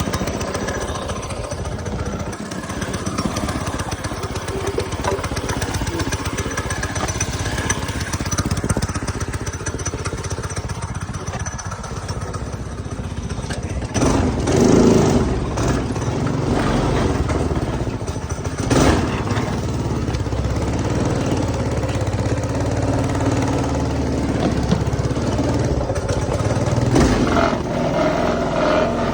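Go-kart's small engine running on a freshly installed 30mm carburetor, getting louder about halfway through, with a few brief surges.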